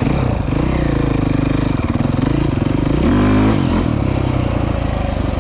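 Off-road vehicle engine running close to the camera, with a quick rev up and back down about three seconds in, over steady wind and riding noise.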